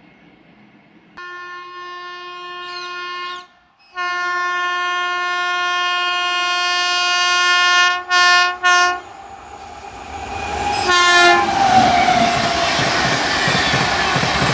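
Locomotive air horn of an express train approaching at speed: a blast of about two seconds, a longer blast of about four seconds, two quick short toots, then one more short blast. The loud rush and clatter of the train running through the station builds up near the end.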